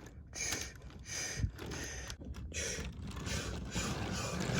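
Steam locomotive chuffing as it starts away: separate hissing puffs about every half second or more that come closer together, running into a steadier hiss with a low hum building near the end.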